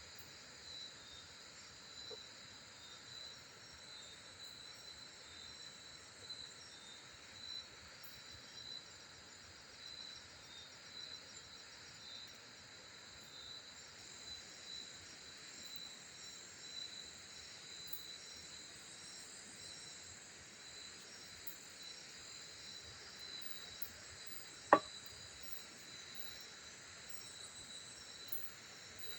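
Steady chorus of forest insects such as crickets, a high pulsing trill. A single sharp click stands out loudly about three-quarters of the way through.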